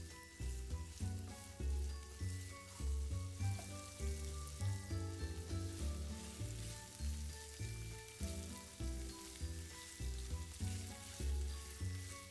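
Bacon, garlic and broccoli stems sizzling in oil in a frying pan as they are stirred with a spatula, over background music with a rhythmic bass line.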